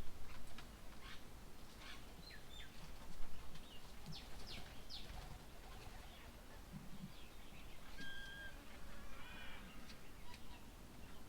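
Several wild birds chirping and calling: scattered short chirps and quick falling notes, a brief held whistle about eight seconds in, then a short run of rapid notes.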